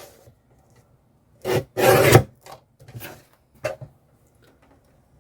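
Paper and packaging being handled on a craft table: a few short rasping, rubbing scrapes, the longest and loudest about two seconds in.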